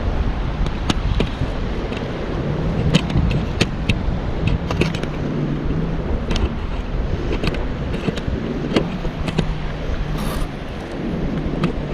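Surf and wind buffeting the microphone as a steady rush, with a low hum underneath. Scattered sharp wooden clacks and knocks sound on top as pieces of driftwood are gathered and knock against each other.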